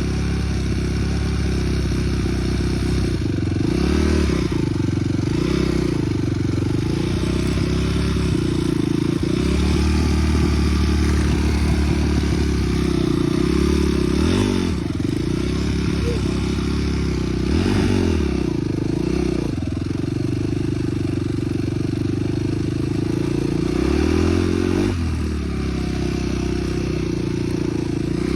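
Dirt bike engine running while riding, its revs rising and dropping several times as the throttle is worked.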